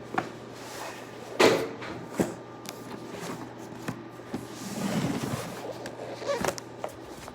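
Large cardboard box being handled and flipped over, with several sharp knocks and thumps. The loudest knock comes about a second and a half in, with a softer scraping rustle near the end.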